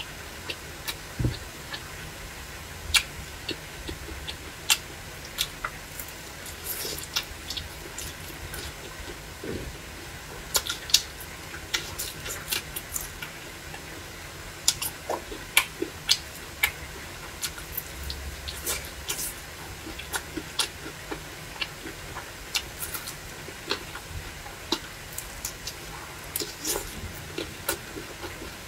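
Close-miked chewing and mouth sounds of someone eating fried skewers: irregular sharp, wet clicks and smacks, several a second, over a steady low hiss.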